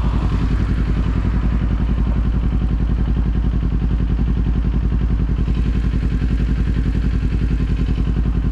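Kawasaki Z400 parallel-twin motorcycle engine idling with a steady, even pulse while stopped.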